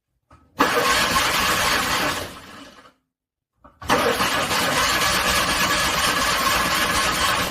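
A car engine is being cranked on its starter in two attempts, struggling to start in extreme cold. The first crank lasts about a second and a half and dies away. After a second of silence, a longer crank of about three and a half seconds follows. A faint click comes just before each.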